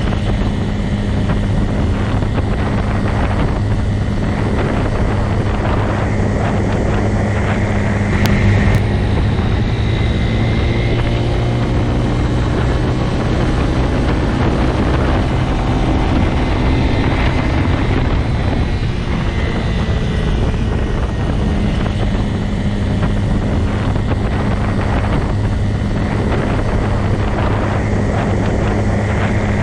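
Motorcycle engine running at a steady, unchanging pitch, a constant low drone with no revving.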